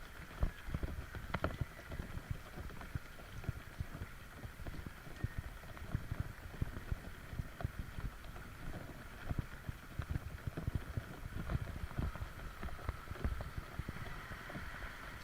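Footsteps of a person walking on a wet street: irregular low knocks and thuds over a steady background hiss.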